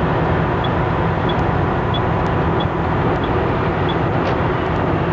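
Truck engine and road noise running steadily inside the cab at highway speed, with a faint tick repeating about every two-thirds of a second.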